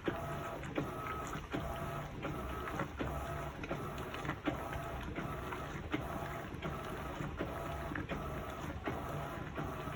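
Electrolux LPE16 washing machine running its heavy-duty wash with a load of two queen-size duvets. The motor whines in short, even strokes about every 0.7 s, with sharp knocks between strokes over a low hum.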